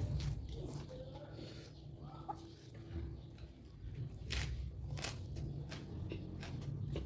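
Chickens clucking faintly in the background, with a few sharp crunches of raw vegetables being bitten and chewed about four and five seconds in.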